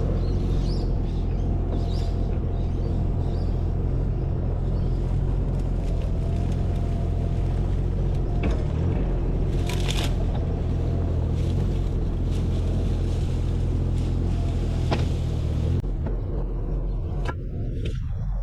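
A motor engine running steadily at low revs, with a few knocks and scrapes over it; the low rumble thins out near the end.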